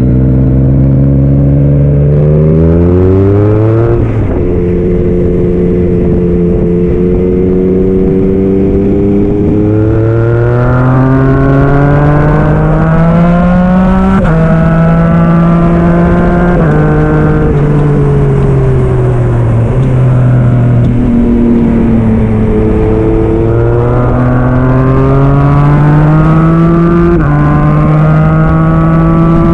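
Yamaha MT-09 SP's three-cylinder engine through an aftermarket Black Widow exhaust, pulling hard under acceleration. The revs climb and drop back in steps at gear changes several times, around 4, 14 and 27 seconds in.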